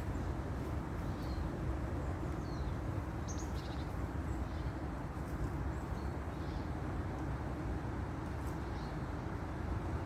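Steady, dense rumbling wind noise, with faint, brief bird chirps scattered over it every second or so.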